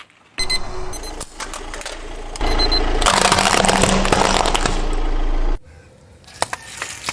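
A car tyre rolling over and crushing brittle objects, heard as dense crackling and snapping over the low hum of the engine. It grows louder about two seconds in and cuts off sharply after about five seconds.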